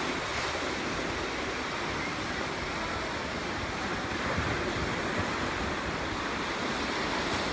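Ocean surf breaking and washing on a beach, a steady rush, with wind buffeting the microphone.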